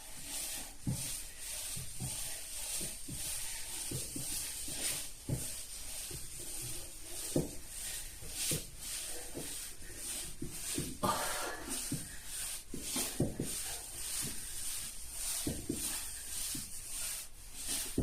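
A person shuffling across the floor on their buttocks: clothing rubbing on the floor, with irregular soft bumps at each step.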